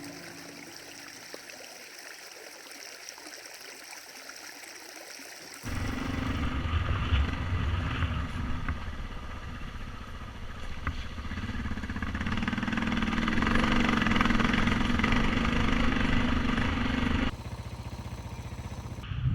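A soft steady hiss, then a sudden cut about six seconds in to the Suzuki DR650's single-cylinder engine running under way, its low thudding pulse growing louder for several seconds before it cuts off abruptly near the end.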